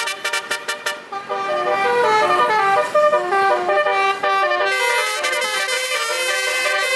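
Truck 'basuri' musical air horn playing a tune: a quick string of short staccato toots in the first second, then a melody of held notes stepping up and down in pitch.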